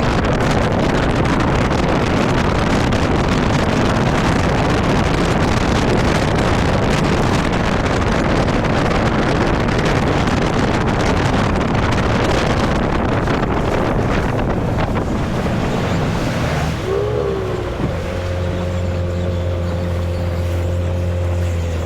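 Ranger bass boat running at speed, with heavy wind noise on the microphone over the motor and rushing water. Late on the wind noise falls away as the boat slows: the outboard's pitch drops and it settles into a steady low hum.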